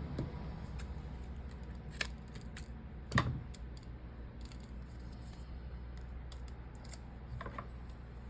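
Scattered small clicks and light taps of tools and parts being handled during a phone screen repair, with one louder knock about three seconds in, over a steady low hum.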